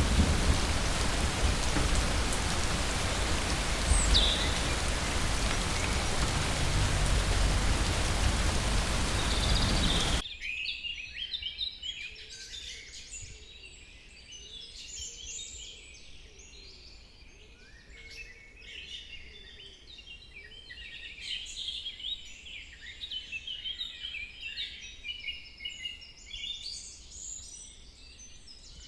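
Heavy steady rain with a deep thunder rumble, cut off abruptly about ten seconds in. Then a quiet forest with many birds chirping and calling.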